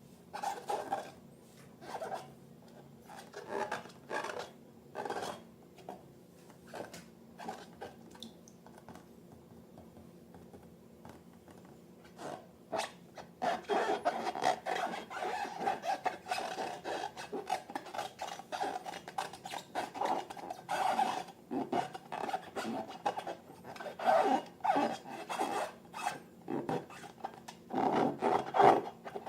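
Slime being worked by hand, with rubbing and scraping sounds: separate short strokes at first, then continuous and louder from about halfway through.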